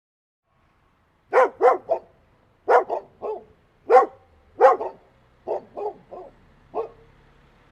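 A dog barking, starting about a second in: about a dozen short barks in quick groups of two or three, the last few quieter.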